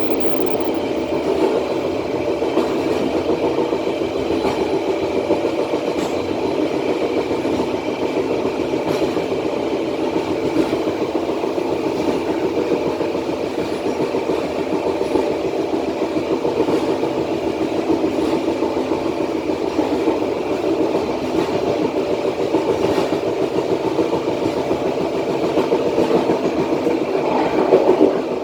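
Matarmaja passenger train running along the track, heard from the rear of the last carriage: a steady running rumble with a few steady tones in it and occasional faint clicks.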